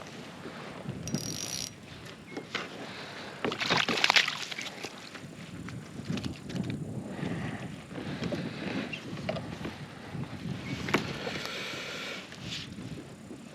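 A small speckled trout being landed and netted from a kayak: irregular splashes, knocks and rustling of net, line and hull, with the loudest burst about four seconds in.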